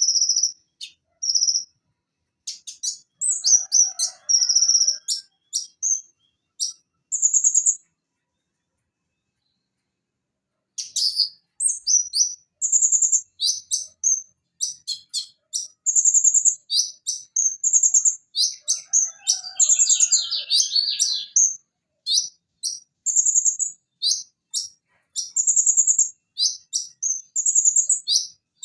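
Konin (Van Hasselt's sunbird, Leptocoma sperata) singing rapid, high-pitched chattering and trilling phrases. There is a pause of about three seconds a third of the way in.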